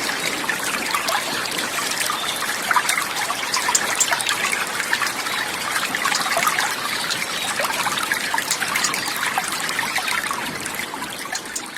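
Water trickling and babbling steadily, like a small stream, beginning to fade out near the end.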